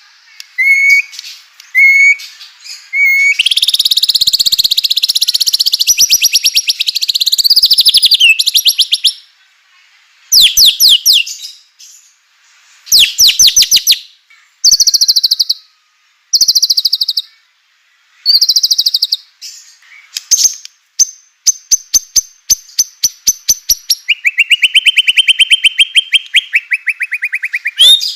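White-rumped shama (murai batu) singing hard. It opens with a few short rising whistles, then gives a long loud buzzy rattle and a string of fast clicking, rattling trills ('kretekan') with short pauses between them. Near the end comes a long run of rapidly repeated notes.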